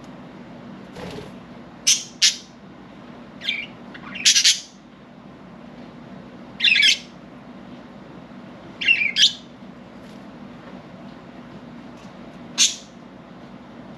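Budgerigars giving short, sharp chirps and squawks, about eight calls at irregular intervals, over a faint steady low hum.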